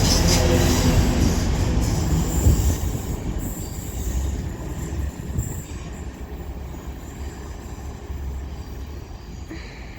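Two coupled Class 185 diesel multiple units passing through a station without stopping. They are loud at first and fade steadily as they run away.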